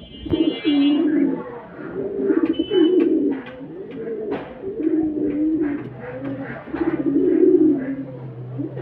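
Birds calling: low cooing phrases about a second long, one after another, with short high chirps over them.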